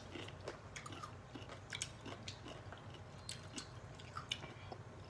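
Pickle being chewed: faint, irregular short crunches and wet mouth clicks, a few each second.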